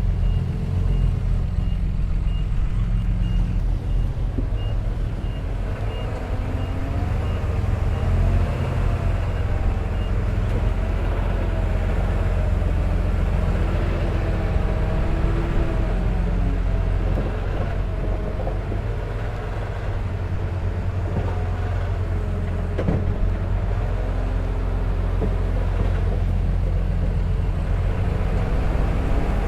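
Heavy diesel earthmoving machinery running steadily, with a reversing alarm beeping about twice a second that stops about ten seconds in. From about six seconds on, a whine wavers up and down in pitch over the engine.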